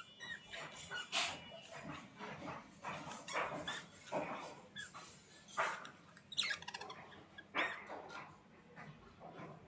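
A series of short, sharp animal calls coming at irregular intervals, about a dozen in all.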